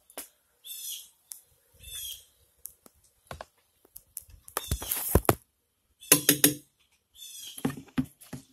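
A bird chirping in short raspy calls, several times. Sharp clicks and a couple of louder clattering knocks come around the middle.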